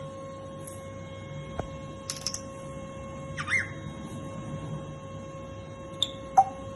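Grey parrot making a few short, sharp clicks and noises, with one brief chirpy whistle about halfway through, over a steady hum.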